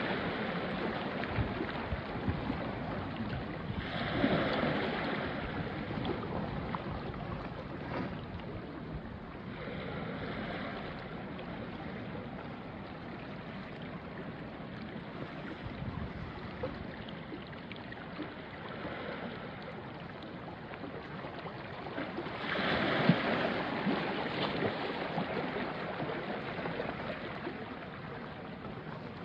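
Small sea waves washing onto a rocky shore, a steady wash of water with swells as waves break at about 4, 10 and 23 seconds in, the last the loudest.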